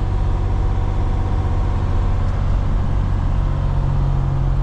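Steady drone of a semi truck's diesel engine and road noise heard from inside the cab while driving.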